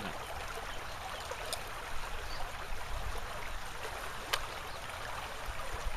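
Steady rush of flowing stream water, with two brief sharp clicks, one about a second and a half in and one just past four seconds.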